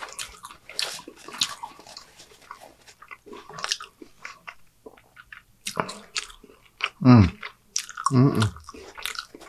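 Close-miked chewing of a mouthful of cheeseburger: irregular wet smacks and soft crunches. Two short voiced mumbles come through the full mouth, at about seven and about eight seconds in.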